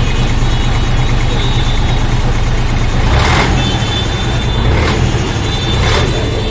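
Bus diesel engine running steadily with a low throb. A short hiss comes about halfway through, and two fainter ones near the end.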